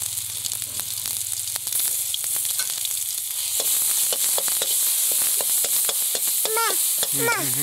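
Oil sizzling in a wok over a wood fire, with a metal ladle scraping and clicking against the pan as the food is stirred. The sizzle grows louder about two seconds in.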